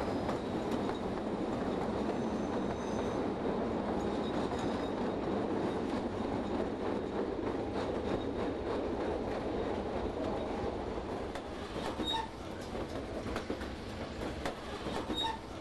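White Pass & Yukon Route narrow-gauge passenger train rolling along the track: a steady rumble of wheels on rail, with scattered small clicks and two short high-pitched squeaks near the end.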